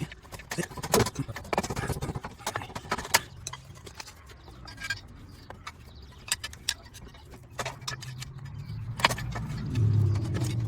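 Irregular metallic clinks and knocks of tools and loose metal parts as a car's clutch pressure plate and clutch disc are worked free, with a low hum rising near the end.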